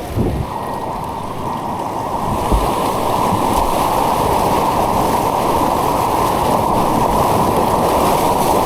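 Rushing white water churning around a kayak on an artificial white-water course: a steady, dull rush that grows a little louder about three seconds in.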